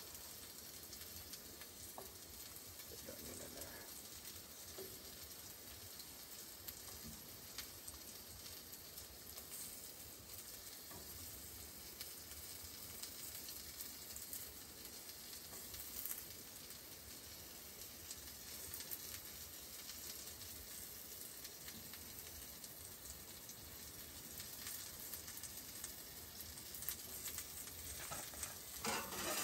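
Sausage and bacon frying in a pan with a steady sizzle, with now and then the soft knock of a wooden utensil stirring it. The stirring gets busier near the end.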